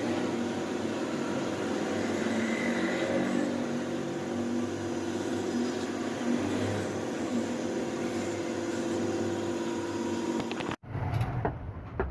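A power tool's electric motor running steadily with a constant whine, then a sudden cut near the end to a different, more uneven tool sound.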